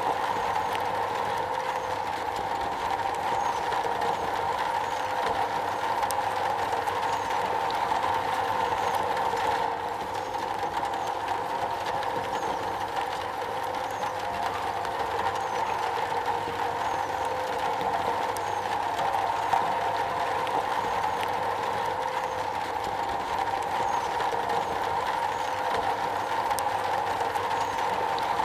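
Steady rain falling on a metal surface, a dense even patter of fine drops.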